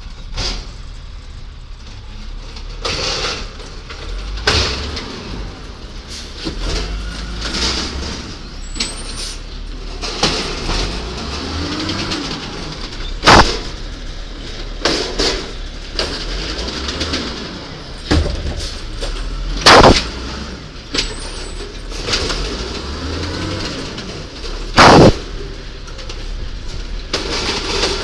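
Garbage truck's diesel engine running with a steady low rumble under a series of sharp bangs. Three of the bangs are much louder than the rest, each about six seconds apart.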